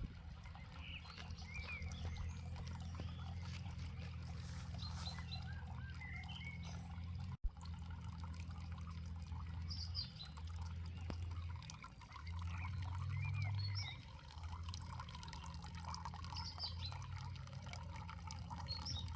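Water trickling and dripping, with small birds chirping on and off over a steady low hum; the sound drops out sharply for an instant about seven seconds in.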